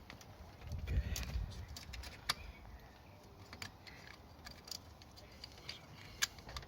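Scattered light metallic clicks and clinks of fasteners and hand tools being handled, with a duller knock and rustle about a second in.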